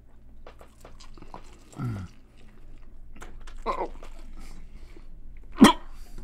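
People chewing mouthfuls of bagel, with many small wet clicks and smacks and a couple of short grunts. A sharp cough near the end is the loudest sound.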